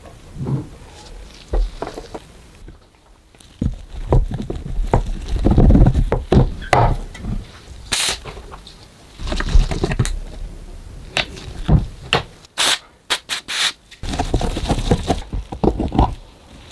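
Hand work on metal parts: irregular knocks, clicks, rubbing and scraping, with heavier thuds a few seconds in, a sharp click about eight seconds in and a quick run of sharp clicks a few seconds later.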